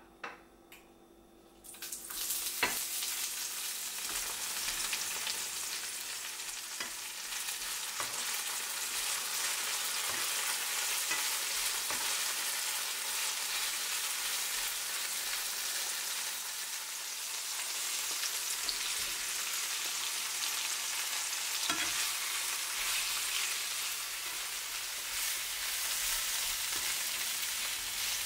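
Bell peppers and asparagus sizzling in hot oil in a nonstick frying pan as they are stir-fried. The sizzle starts suddenly about two seconds in when the vegetables go into the pan, and the spatula knocks against the pan now and then.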